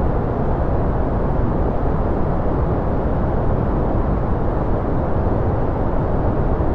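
Steady white-noise track: an even, unbroken rushing hiss with no changes, fuller in the low and middle range than at the top.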